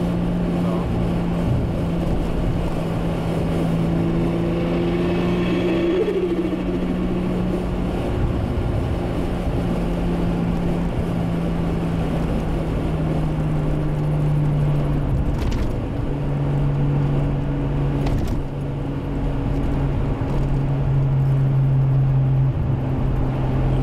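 Toyota Supra's turbocharged 1JZ inline-six engine running at a fairly steady speed while driving, its pitch stepping down a little about two thirds of the way through.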